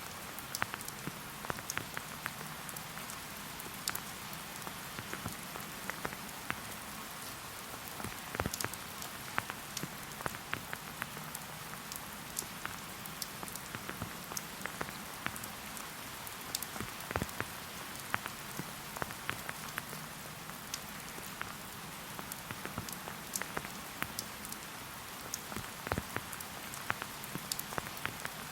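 Steady rain falling, with a constant hiss and frequent sharp, irregular taps of single drops striking close by.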